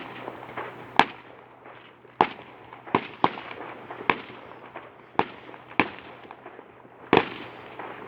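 Fireworks display: a run of sharp bangs at irregular spacing, roughly one or two a second, over a continuous noisy background.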